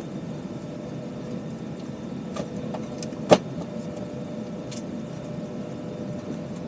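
Steady hum of an Airbus A320 airliner cabin at the gate, with a faint steady tone. A sharp click comes a little over three seconds in, with fainter clicks before and after.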